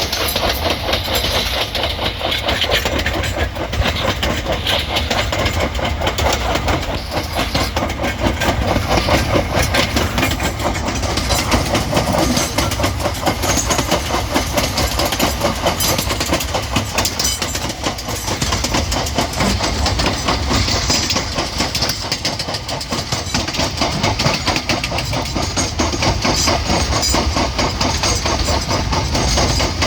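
Vintage train running on the rails: a steady, continuous rattle of wheels and carriages.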